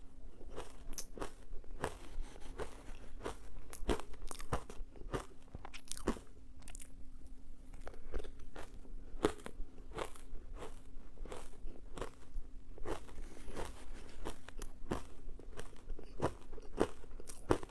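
Ice being bitten and chewed: an irregular run of sharp crunches, about two or three a second.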